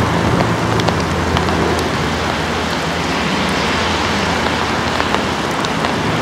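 Freight train's wagons rolling away along the track: a steady rushing noise of wheels on rails with scattered faint clicks, over a low drone that fades after the first couple of seconds.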